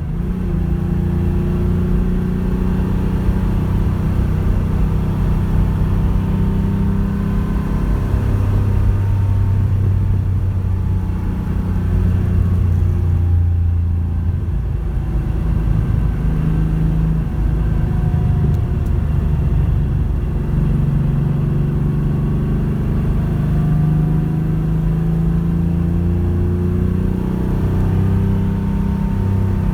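Porsche 911 rally car's flat-six engine running for a long stretch, its pitch rising and falling gently with engine speed rather than hard revving.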